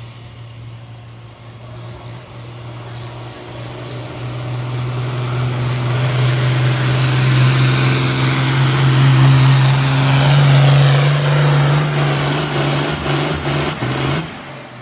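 Pulling tractor's engine at full throttle, hauling the sled down the track, holding a steady pitch and growing louder. Near the end it revs up briefly and then drops off as the pull ends.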